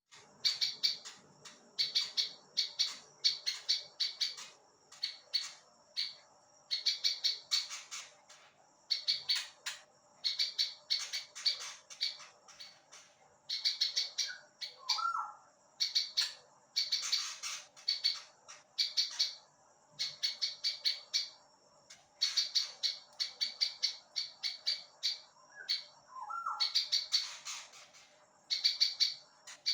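A ciblek (prinia) singing continuously: rapid runs of sharp, high chirps in bursts of a second or two, repeated over and over with short pauses between. Twice a brief lower call sounds under the song.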